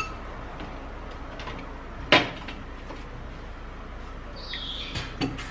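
Oil bottles and a teaspoon being handled: a click at the start, one sharp knock about two seconds in as something is set down, and a few small clicks near the end.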